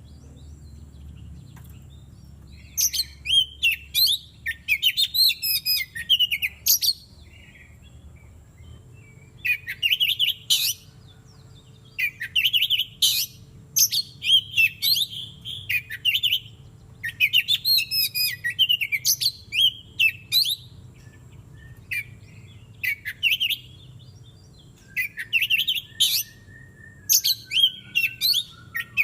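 Oriental magpie-robin (kacer) singing a loud, varied song of quick whistled and chattering notes, delivered in bursts of one to two seconds with short pauses between them.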